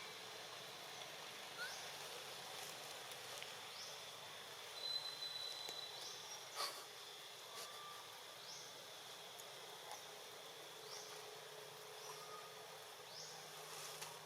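Faint outdoor ambience of insects: a steady high hum with a short rising chirp repeating about every second and a half. A few sharp clicks come near the middle.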